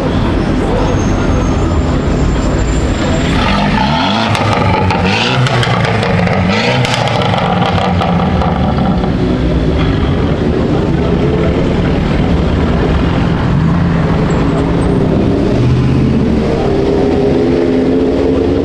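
Car engine running, its pitch rising as it accelerates, once about four seconds in and again near the end.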